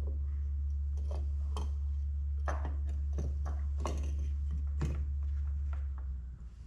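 Scattered light clicks and knocks of small parts being handled while a fuel sender unit is being fitted to a quad bike's fuel tank. They sound over a steady low hum, which cuts out a little after six seconds in.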